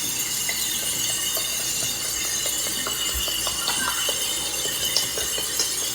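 Scattered light clicks and clinks over a steady hiss.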